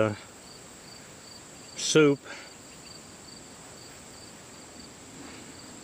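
Insects chirping in the background, a high pulsing chirp repeating about three times a second over a steady higher tone.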